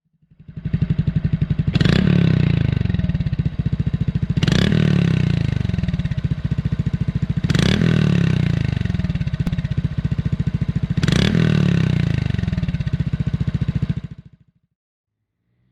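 Honda Super Cub C125's single-cylinder four-stroke engine running through an SP Takegawa SSS steel exhaust with a bullet-shaped silencer: idling with an even thumping pulse and revved four times, each rev rising and falling back. The sound fades in about half a second in and stops a second or so before the end.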